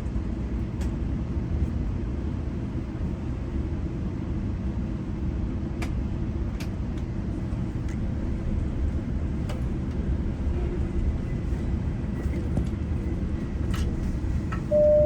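Steady low rumble of a GO Transit commuter train in motion, heard from on board, with a few light clicks. Near the end a single chime note sounds, the start of the onboard arrival-announcement chime.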